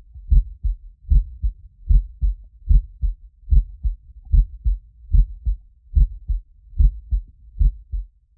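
Heartbeat sound effect: steady lub-dub double thumps, a strong beat followed closely by a weaker one, at about 75 beats a minute.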